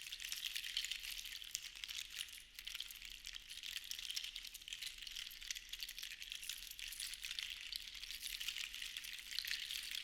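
Seashells rattling against one another, as in a shell shaker: a dense, continuous patter of tiny clicks that swells and eases in slow waves.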